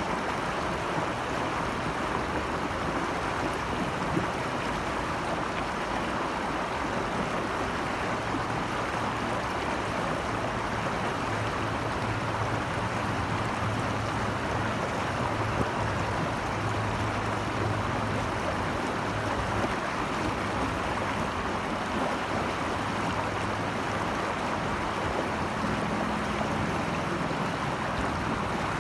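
Steady rush of flowing stream water, an even unbroken sound with no pauses.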